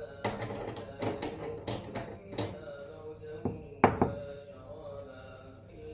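Household clatter: a quick run of clicks and knocks from objects being handled, then two louder knocks close together a little past halfway. Quran recitation plays softly underneath.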